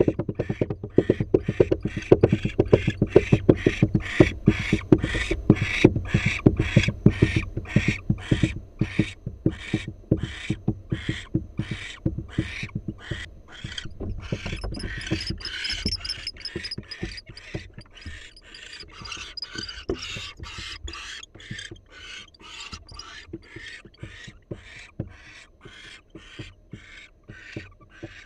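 Barn owl hissing calls from inside the nest box, repeated in a very even series about two a second and fading somewhat in the second half.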